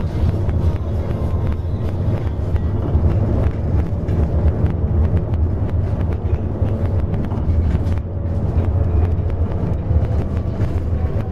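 Bus running on the road, heard from inside the cabin: a steady low engine and road rumble with light rattles.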